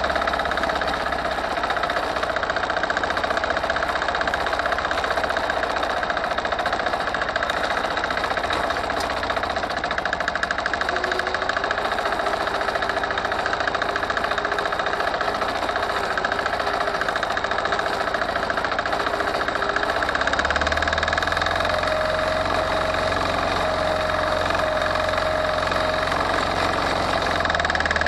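Forte 135E walk-behind tractor's engine running steadily while under way, its low note shifting about twenty seconds in.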